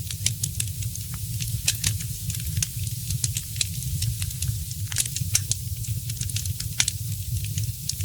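Wood fire crackling in a fireplace: irregular sharp pops and snaps several times a second, a few louder than the rest, over a steady low rumble.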